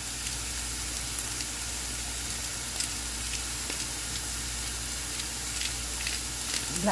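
Diced onions and sweet peppers sautéing in oil in a stainless steel frying pan: a steady sizzle with a few faint scattered crackles.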